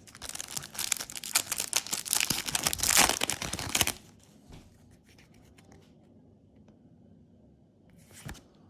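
Foil Yu-Gi-Oh booster pack wrapper being torn open and crinkled, for about four seconds, then quiet handling with a short rustle near the end.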